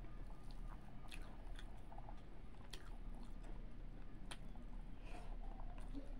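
Close-miked mouth sounds of someone chewing a mouthful of rice and fried fish, with scattered sharp smacks and clicks, over a steady low hum.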